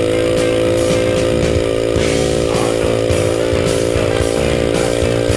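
Honda Monkey (Z50) minibike's small single-cylinder four-stroke engine running at a steady cruise. Rock music with a steady beat plays over it.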